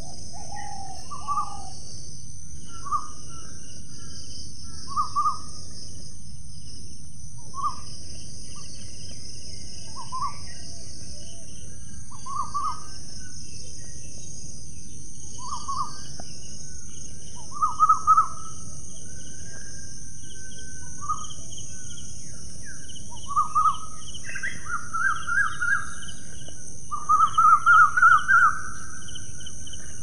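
Short bird calls repeating every two to three seconds, ending in a longer run of rapid notes, over a steady outdoor hiss.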